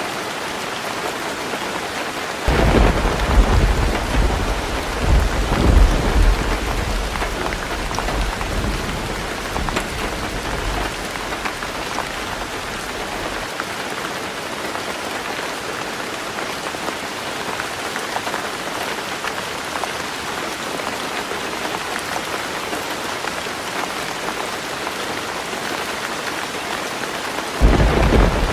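Heavy rain drumming steadily on a roof. A low roll of thunder rumbles in a couple of seconds in, loudest over the next few seconds and dying away about halfway through, and a second rumble begins near the end.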